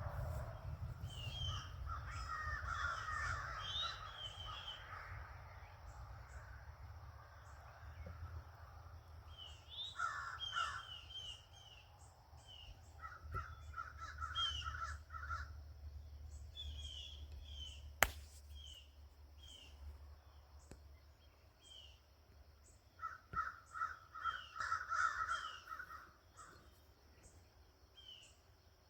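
Crows cawing in several bouts of rapid, repeated caws, with smaller birds chirping between them. A low rumble fades away over the first part, and there is a single sharp click about two-thirds of the way through.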